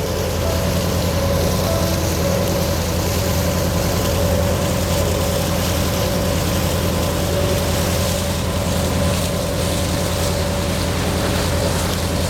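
A small harbour ferry's engine running at a steady cruise, a constant low drone with a faint steady tone above it and a hiss of wind and water.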